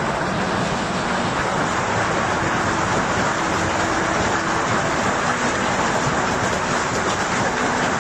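Hailstorm: a steady, dense roar of hail pelting down.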